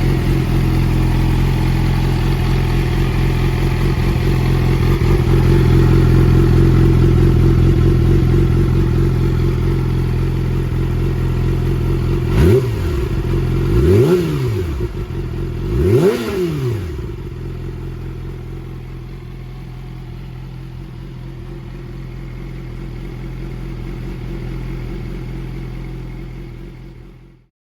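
Yamaha YZF-R6 inline-four engine idling through an Akrapovič race slip-on exhaust. About halfway through it is blipped three times, each rev rising sharply and dropping back, then it settles to idle again.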